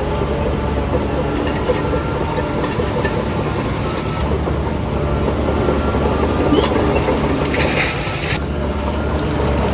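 Shantui DH17C3 crawler bulldozer working: its diesel engine runs steadily under the clatter of its steel tracks. A short hiss comes about eight seconds in.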